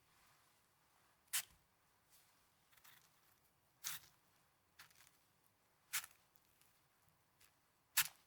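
Snow being crunched or squeezed close to the microphone: a sharp, crisp crunch about every two seconds, with fainter crackles between.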